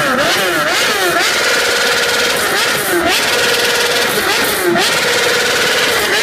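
Sport motorcycle engine being revved repeatedly, its pitch dipping and rising again about once or twice a second, with crackles from the exhaust.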